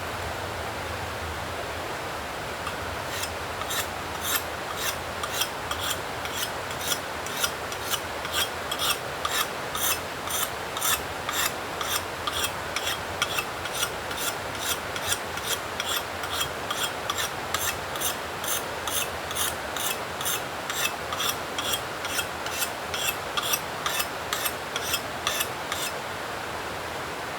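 Axe blade being sharpened on a whetstone: short rasping strokes of steel on stone in a steady rhythm, about two a second. They start a few seconds in and stop shortly before the end.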